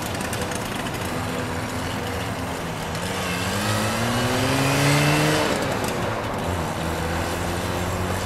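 Vespa 400 microcar's small two-stroke twin-cylinder engine as the car drives past: the engine note climbs steadily in pitch as it accelerates, is loudest about five seconds in as it goes by, then falls to a lower steady note as it pulls away.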